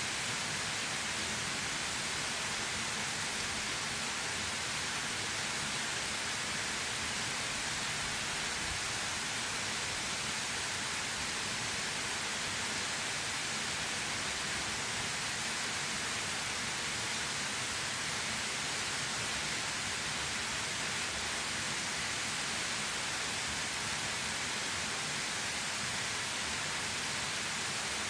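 Waterfall pouring steadily: a constant, even rush of falling water, strongest in the upper register, without change.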